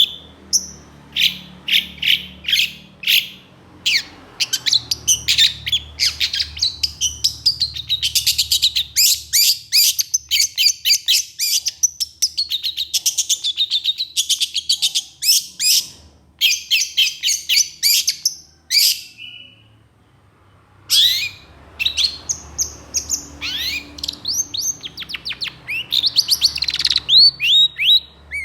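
Long-tailed shrike (cendet) singing a fast, harsh chattering song of rapid short notes in dense runs. It breaks off for about two seconds late in the stretch, then starts again.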